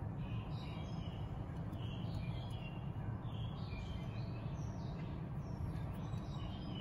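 Small birds chirping over and over in short calls, over a steady low background rumble.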